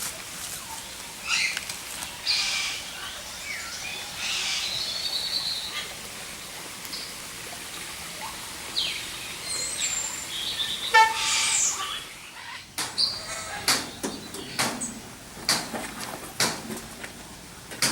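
Mixed aviary birds calling, with overlapping chirps and squawks. About two-thirds of the way through the sound changes abruptly to a run of sharp clicks and knocks.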